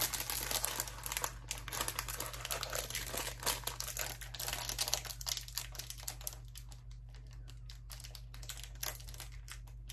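Biscuit wrapper crinkling and rustling as it is worked open with some difficulty. Dense crackling in the first half thins to scattered crinkles toward the end.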